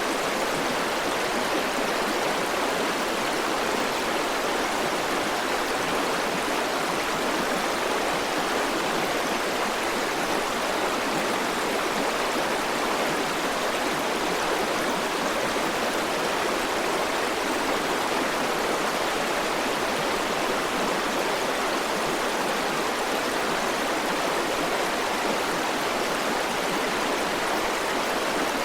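River water rushing steadily, a constant even hiss with no breaks or separate splashes.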